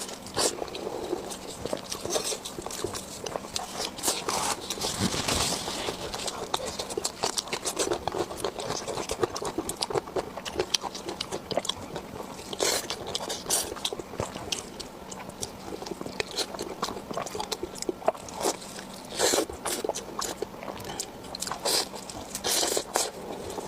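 Close-miked chewing and biting, a dense run of small crunchy clicks with louder clusters of bites now and then.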